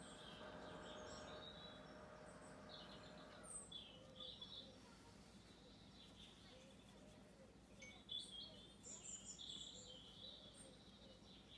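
Faint birdsong: small birds chirping in short clusters about three and a half seconds in and again from about eight seconds. A faint steady hum fades out a few seconds in.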